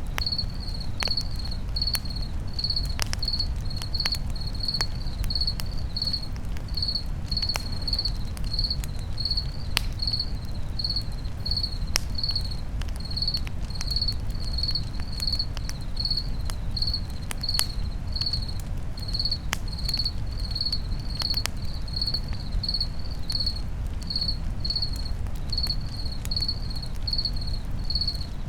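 A cricket chirps steadily in an even rhythm, a little more than once a second, over a campfire crackling with scattered sharp pops and a low steady rumble.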